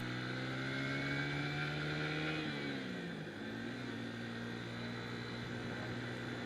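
Motorcycle engine running on the move; its revs drop about two and a half seconds in, then hold steady.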